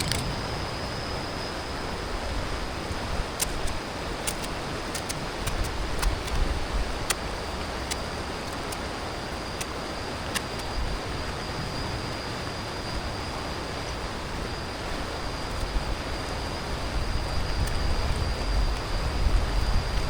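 Steady rushing of a river with gusts of wind on the microphone, a thin steady high tone over it, and a few faint ticks.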